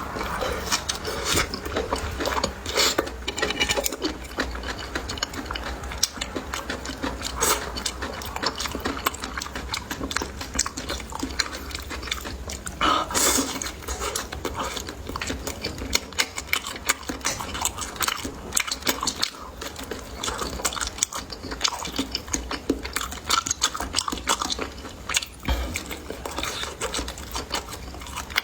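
Close-miked chewing and crunching of food, a dense run of small clicks and crunches, over a low steady hum.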